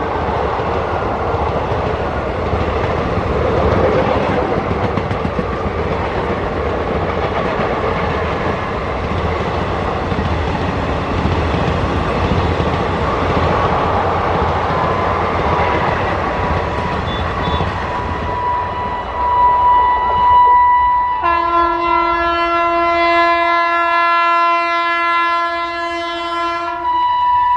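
An Indian Railways train running past with a steady rumble and rail clatter, then its locomotive horn sounding: a single tone at first, then a long chord held for about six seconds, and another blast starting near the end.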